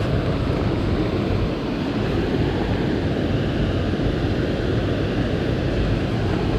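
Steady rushing of river water, an even noise heaviest in the low end with no breaks or distinct events.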